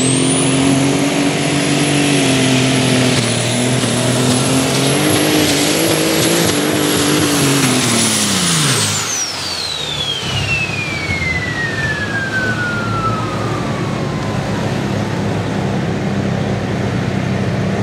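Light Super Stock pulling tractor's turbocharged diesel engine running flat out under load, with a high, steady turbocharger whine. About nine seconds in the engine drops off, and the turbo whine winds down in a long falling glide.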